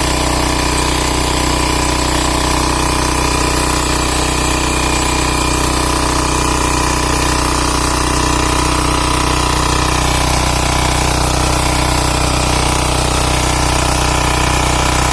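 Power tiller's Kama engine running at a steady, unchanging speed.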